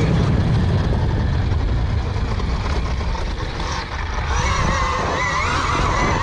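Electric motor of a KTM Freeride E-XC dirt bike whining while riding, over a steady low rumble. About four seconds in the whine grows stronger and wavers up and down in pitch with the throttle.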